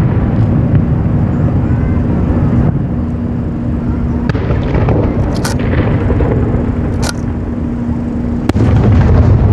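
Fireworks display: dense, continuous low rumbling of shells bursting and echoing, with brief crackles and one sharp bang near the end.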